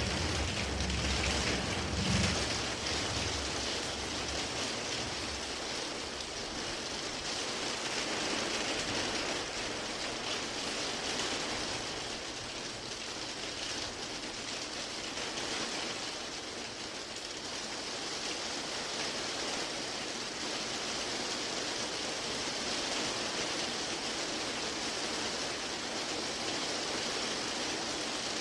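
Steady rushing water ambience, an even hiss with no distinct events. A low rumble underneath fades out in the first few seconds.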